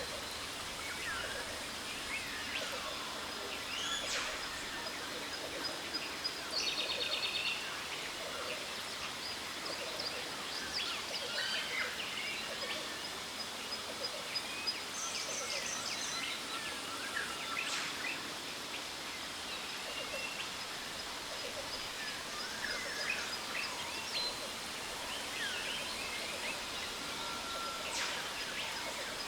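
Jungle ambience: many birds chirping and calling in short, quick notes over a steady hiss of falling water from a waterfall, with a thin, steady high note running through much of it.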